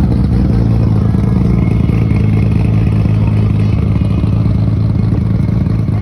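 A vehicle engine running steadily with a deep, even low hum that holds the same pitch throughout.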